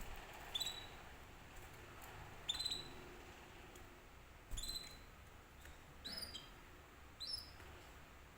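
Canary giving short, high chirps, five in all, spaced roughly one and a half to two seconds apart.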